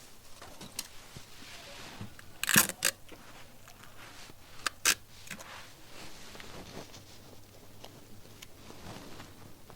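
Printed paper pattern sheets being handled and laid edge to edge: soft rustling with a few sharp crackles, the loudest about two and a half seconds in and another pair near the five-second mark.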